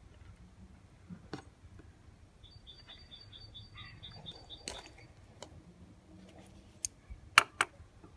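A bird chirping in a quick run of short, high notes, about six a second, in the middle. Light knocks on a wooden tabletop, with three sharp metallic clacks near the end as steel scissors are set down.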